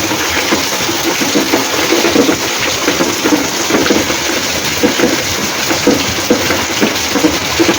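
Rainwater gushing off a roof and splashing down during heavy rain: a loud, steady, dense splashing.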